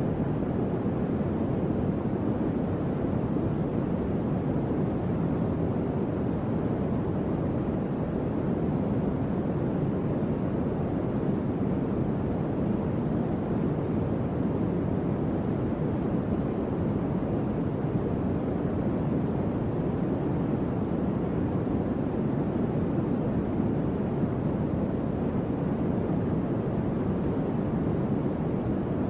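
Electric fan running: a steady, low airflow hum without change.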